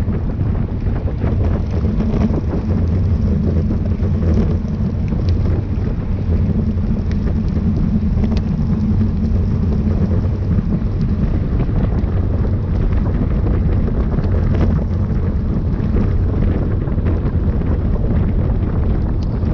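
Wind buffeting the microphone of a camera riding on a moving bicycle: a loud, steady low rumble with faint scattered ticks.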